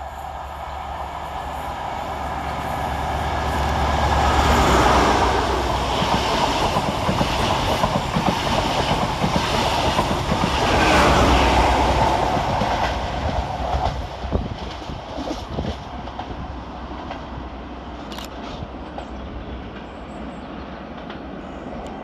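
High Speed Train with Class 43 diesel power cars passing through, its engine rumble and wheel clatter over the rail joints swelling to a peak about five seconds in and again about eleven seconds in, then fading.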